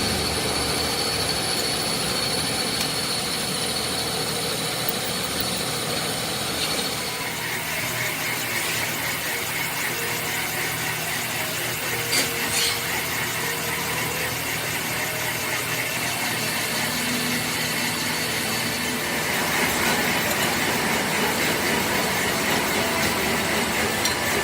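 A metal-cutting machine tool working cast iron, with a steady high-pitched whine that about seven seconds in gives way to a lower, fast-pulsing whine, and a couple of short clicks near the middle.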